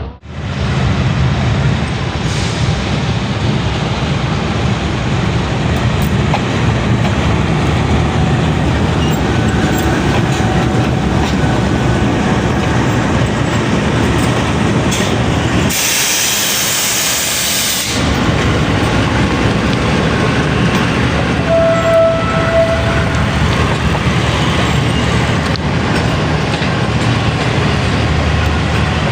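Train running on the rails: a steady, loud rumble of wheels and cars, with a two-second hiss about halfway through.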